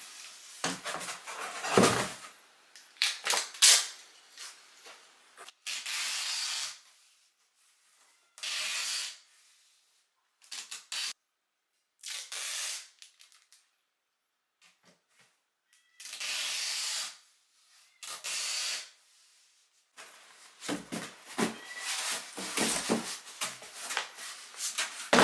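Packing a cardboard box by hand: clicks and rustling as items are handled at the start and near the end. In between come about five separate rasping, hiss-like sounds, each about a second long with quiet between them.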